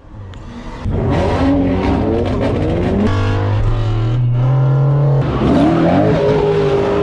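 Car engine revving hard, loud, its pitch sweeping up repeatedly, then held at high revs for a couple of seconds before more rapid revs.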